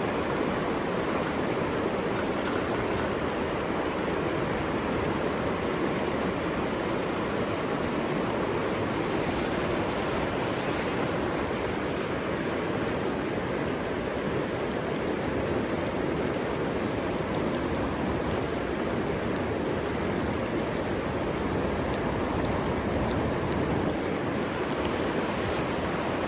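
River water flowing, a steady unbroken rush, with a few faint high ticks here and there.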